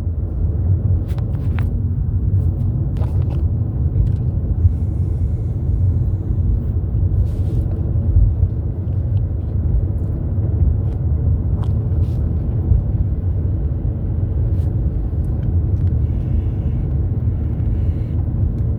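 Steady low rumble of a moving car, engine and road noise heard from inside the cabin, with a few faint clicks.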